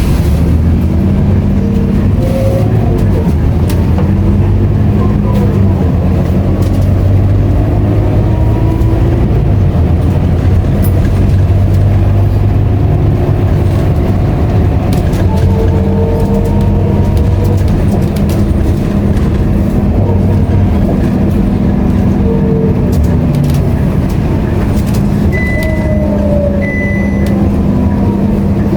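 Scania K230UB bus's five-cylinder diesel engine and drivetrain running steadily under way, heard from inside the cabin, with faint whines rising and falling. Two short high beeps sound near the end.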